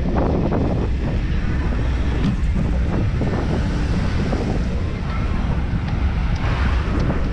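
Wind buffeting the microphone of a camera on a moving bicycle, a steady low rumble with road noise mixed in.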